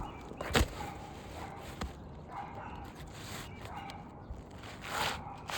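A few sharp knocks, the loudest about half a second in, and short scraping rustles near the end, from hands working an asphalt roof shingle into place.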